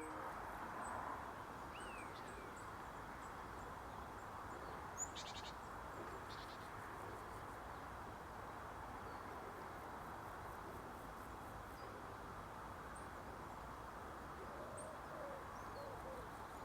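Faint wild bird calls and short chirps scattered over a steady outdoor background hiss, with one brief sharper call about five seconds in.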